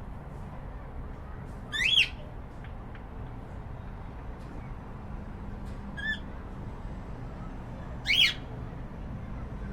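Cockatiel calls: a loud, short call about two seconds in, a faint short chirp around six seconds, and another loud, short call near eight seconds.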